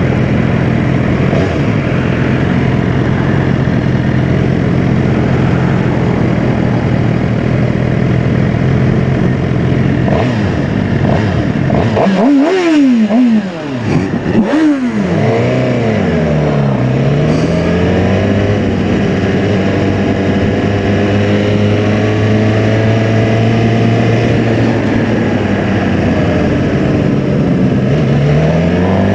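Sport motorcycle engine running at road speed with wind rush. About twelve seconds in, the engine note rises and falls in several quick swings as it revs and shifts, then holds steady, and it begins climbing again near the end.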